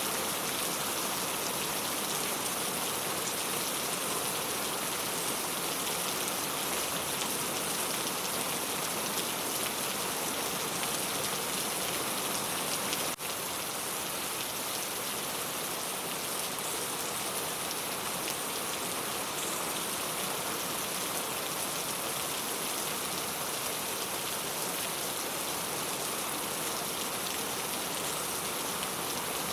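Steady rain pattering on a clay tile roof. About halfway through there is a single faint click, and after it the rain is slightly quieter.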